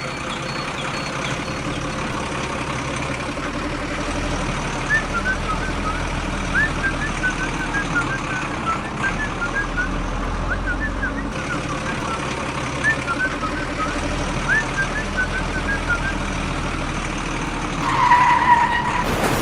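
Steady vehicle engine rumble, with many short high chirps through the middle and a brief steady tone near the end.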